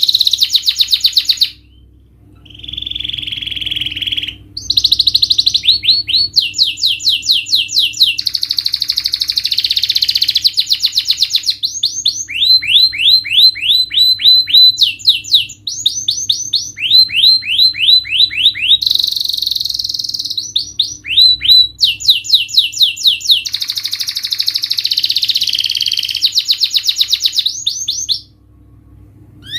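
Domestic canary singing a long, loud song of rapid rolling trills and strings of repeated downward-sweeping notes, broken by short pauses about two seconds in and near the end.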